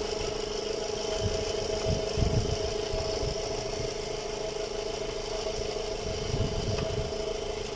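Volkswagen Gol 1.6 engine idling on three cylinders, with an uneven low pulsing under a steady hum: cylinder 3 is misfiring because its ignition coil output has failed.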